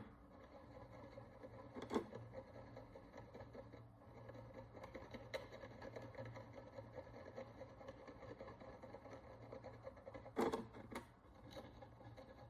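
Faint scratching of a cleaning tool working the crust on an ancient Roman bronze coin, over a low steady hum, with a few sharp taps: one about two seconds in and two close together near the end.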